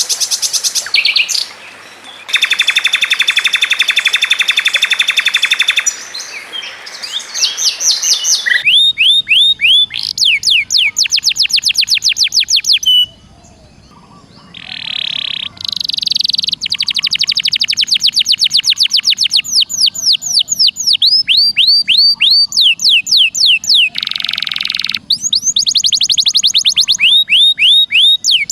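Songbird song spliced from several recordings: fast runs of sharp, down-sweeping whistled notes, several a second, with a dense rapid trill a few seconds in. The recordings change with abrupt cuts.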